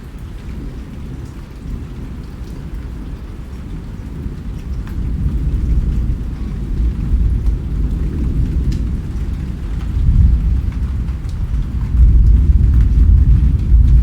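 Rain falling steadily with scattered drop ticks, under a deep rumble of thunder that swells about a third of the way in and peaks twice in the second half.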